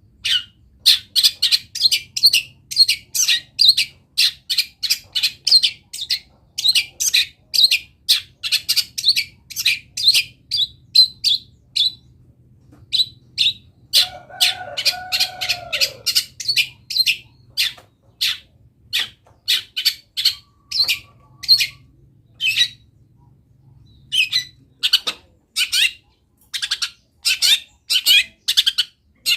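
Long-tailed shrike (cendet) singing a fast run of short, sharp high notes, several a second, in a varied song full of imitations of wild birds. About halfway through there is a lower drawn-out call.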